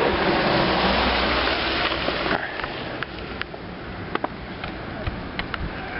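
Blizzard wind buffeting the microphone, heavy for the first two seconds or so and then easing, with a few sharp clicks.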